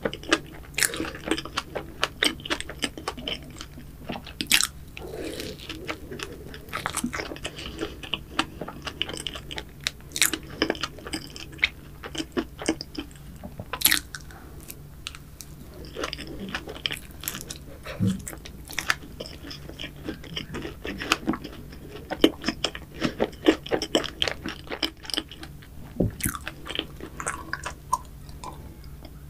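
Close-miked chewing and crunching of a chocolate cookie choux, a cream puff with a crisp cookie crust, with sharp, irregular crunches all through.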